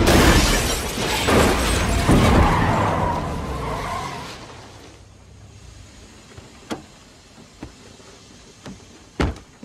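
A car driving hard, its loud noise fading away over about four seconds, followed by a few sharp clicks.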